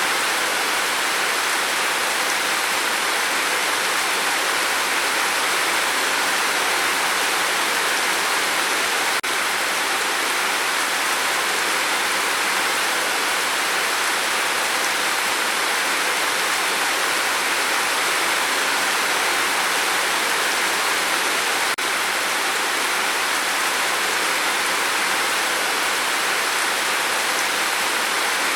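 Steady rain: an even, continuous hiss of many drops falling.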